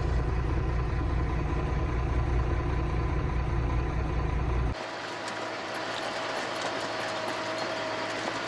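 Volvo VNL truck engine and road noise heard inside the cab while driving, a steady low rumble. About halfway through it changes suddenly to a thinner, quieter steady noise with a faint whine.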